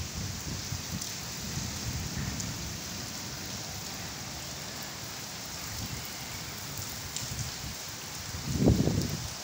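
Steady rain falling on a flat concrete rooftop, an even hiss throughout. A short low rumble comes near the end and is the loudest moment.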